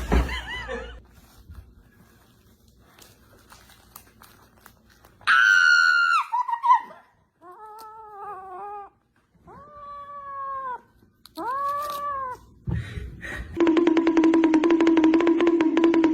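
A cat meowing. A loud call about five seconds in falls in pitch, three shorter meows follow that rise and fall, and near the end comes a longer, steady, buzzy call of about two and a half seconds.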